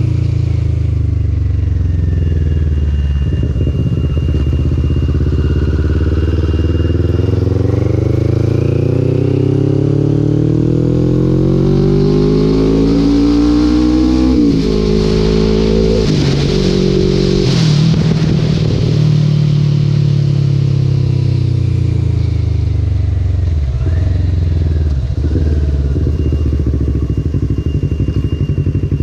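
Motorcycle engine under way, its pitch climbing steadily for about twelve seconds as it accelerates, dropping abruptly at a gear change about halfway, then falling as it slows and settling to a low, steady note near the end. A rushing hiss rises over the fastest stretch.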